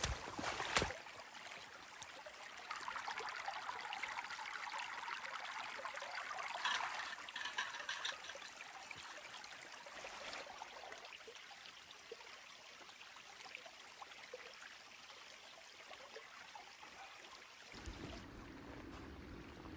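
Steady rushing hiss of flowing water, louder for a few seconds and then easing, with a few faint ticks.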